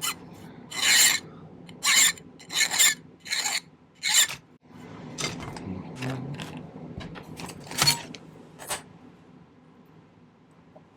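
Hand file on sterling silver wire, filing it flat in strong strokes about one a second. After about four seconds it turns to softer rubbing with a few more strokes, and it stops about nine seconds in.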